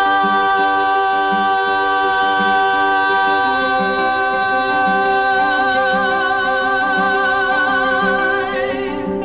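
A woman singing one long held note, steady at first with vibrato coming in about halfway, over acoustic guitar picking; the note ends near the close.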